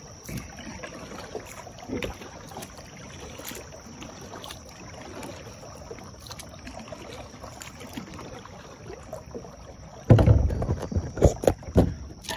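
Kayak being paddled, with soft paddle strokes and water over a steady hiss. About ten seconds in comes a two-second run of loud, low knocks and thumps.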